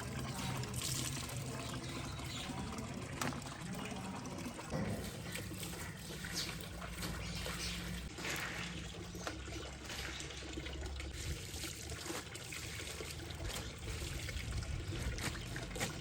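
Water trickling and pouring, unevenly, with brief louder splashes.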